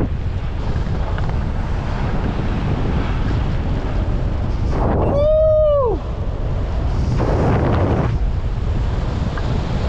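Wind buffeting the microphone in a steady loud rumble. About five seconds in, a single short pitched call arches and then drops away, followed a couple of seconds later by a brief swell of brighter hiss.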